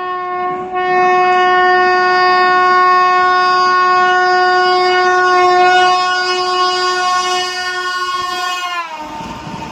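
Indian Railways locomotive horn held in one long, loud blast as an express train approaches at speed. Its pitch drops sharply about nine seconds in as the locomotive passes.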